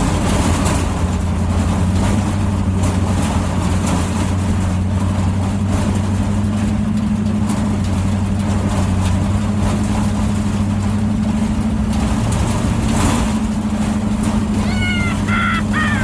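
V8 engine of an off-road Dodge Charger running at a steady pace under way, an even low drone.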